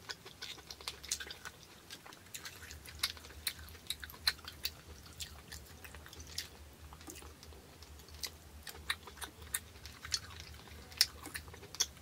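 A person chewing lobster claw meat close to the microphone, with irregular sharp mouth clicks and smacks.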